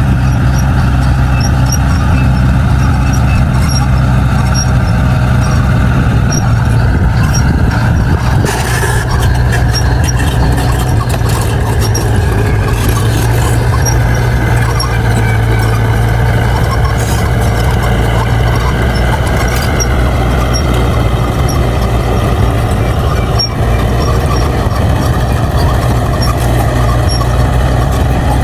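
Crawler bulldozer's diesel engine running steadily under load, with intermittent high metallic squeaks and ticks, strongest from about eight to fourteen seconds in.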